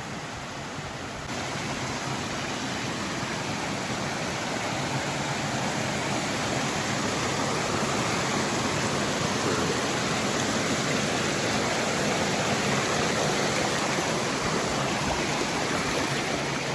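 Small mountain stream rushing over rapids, a steady rush of water that steps up about a second in and grows slowly louder as it is approached and crossed.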